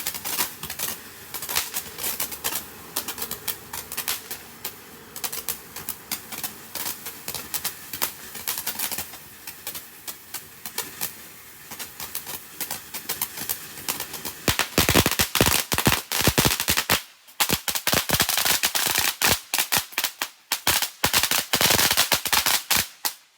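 Fireworks going off in a rapid, irregular run of sharp pops and crackles. The run grows much louder and denser about fifteen seconds in, with a brief lull about two seconds later.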